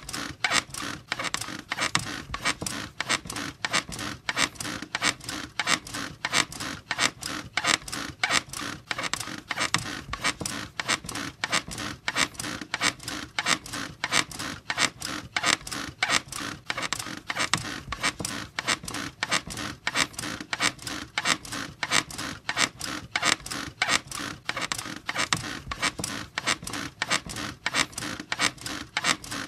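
Squeaky bed creaking rhythmically and steadily, about two squeaks a second, as if rocked back and forth.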